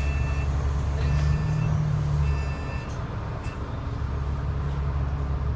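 Transit bus engine running with a steady low rumble that eases off about two and a half seconds in. Over it, an electronic warning beep sounds about four times in the first three seconds.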